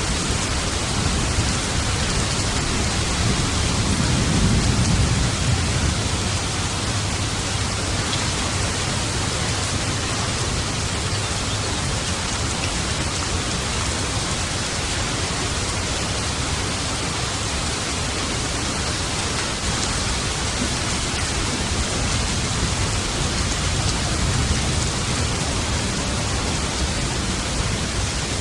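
Steady heavy rain with low rolling thunder: one rumble swells about four seconds in and a fainter one comes near the end.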